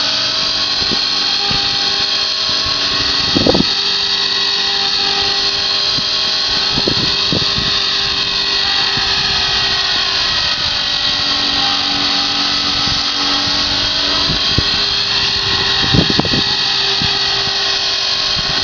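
Radio-controlled model helicopter in flight: its motor and rotor blades run with a steady whine whose pitch drifts slowly up and down as the throttle changes. A few brief bumps break through, about three seconds in and again near the end.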